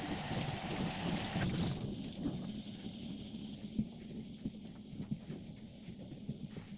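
Water running briefly for about two seconds, followed by scattered light knocks and clatter.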